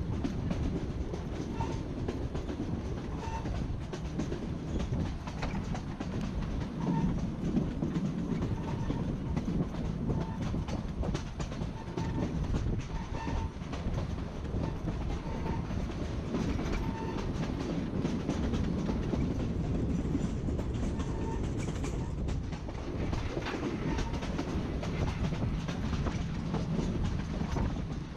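Narrow-gauge passenger train rolling steadily along the track: a continuous low rumble of the coaches with the clickety-clack of wheels over rail joints and short light squeaks about once a second.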